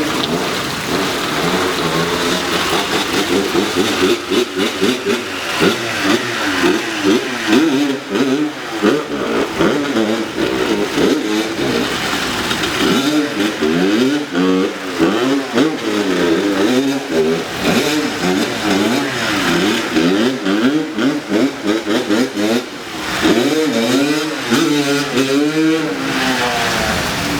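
Dirt bike engine revving up and down over and over, its pitch rising and falling, as it is ridden through deep floodwater that the rider says came up high and almost shut the engine off.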